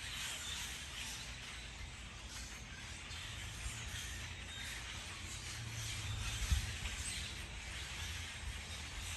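Steady outdoor background noise: a low rumble under an even hiss, with one brief thump about six and a half seconds in.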